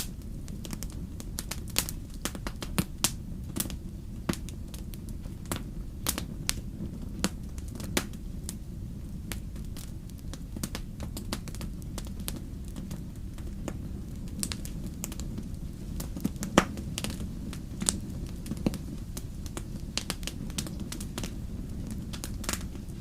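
Wood fire crackling, with irregular sharp pops and snaps over a steady low rumble; one louder pop about two-thirds of the way through.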